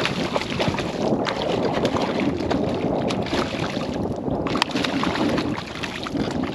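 Water sloshing and wind buffeting the microphone, with many small clicks scattered through it.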